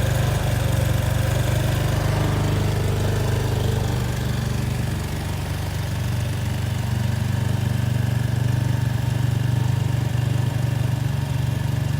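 Motorcycle engine idling steadily, briefly a little quieter about five seconds in.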